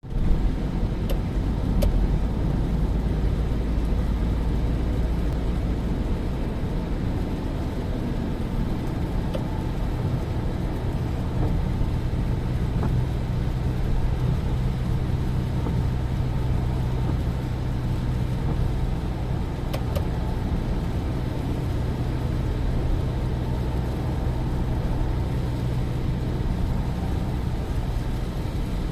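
Toyota Innova Crysta being driven: steady road and engine rumble, with a low even hum that stands out through the middle.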